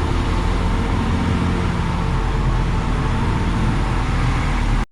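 Concrete mixer truck's diesel engine running steadily with road noise, then cutting off suddenly at the very end.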